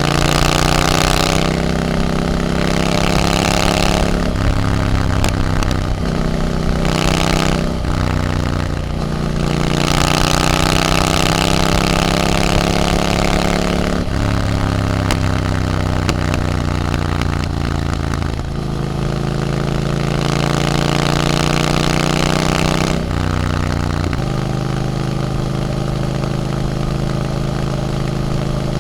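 Triumph Scrambler 900's parallel-twin engine through an Arrow exhaust, accelerating through the gears: the pitch climbs, then drops at each shift several times over. For the last few seconds it holds a steady cruise.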